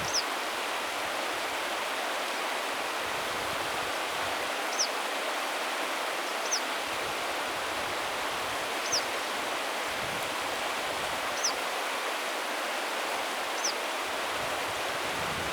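Steady rush of river water, with a bird repeating a single short, high, downslurred call about every two seconds, seven times.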